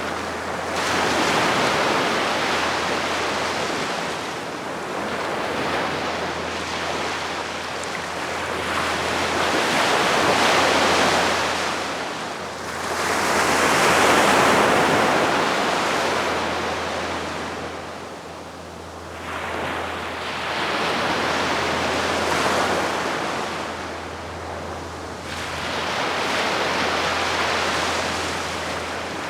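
Calm sea waves breaking gently and washing up the shore, one after another, each swelling and ebbing over a few seconds, about five in a row. A steady low hum runs underneath.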